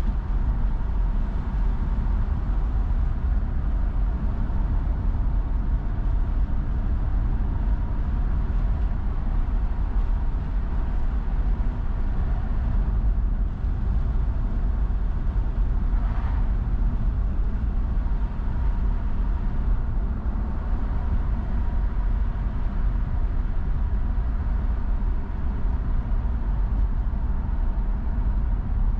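Steady low rumble of a car's road and engine noise while driving, heard from inside the cabin.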